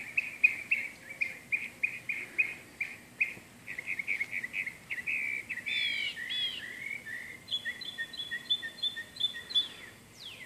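Songbirds chirping: a quick run of short, repeated chirps, then a few downward-sliding notes about six seconds in, followed by a steady series of evenly spaced paired notes.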